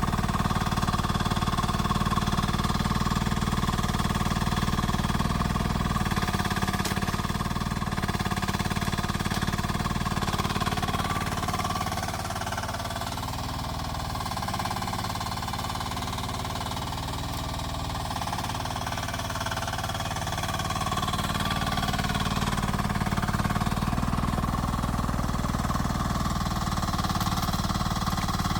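Rippa R10 mini excavator's engine running steadily at working speed. Its pitch and level drop for several seconds in the middle, then climb back.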